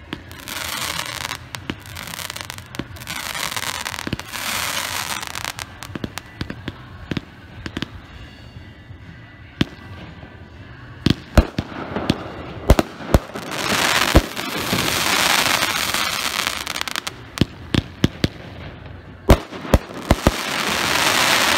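Brothers Silver Screen consumer firework going off: a series of sharp launch and burst reports, densest and loudest in the second half, with stretches of dense hissing crackle between them.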